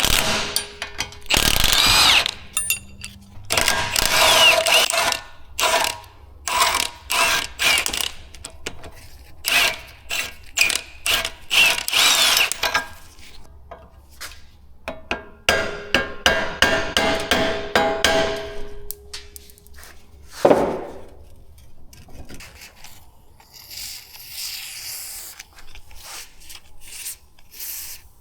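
Hand ratchet clicking in repeated bursts of quick strokes, with metallic ringing, while working on an old shock absorber clamped in a vise. A single sharp metal knock comes about twenty seconds in.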